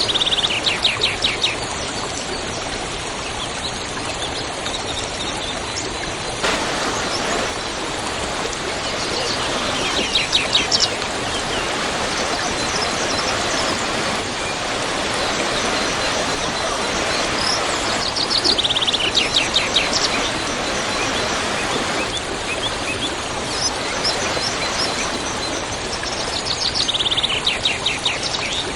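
Waterfall rushing steadily, with a bird singing a short, fast trill of high notes four times, about every eight to nine seconds.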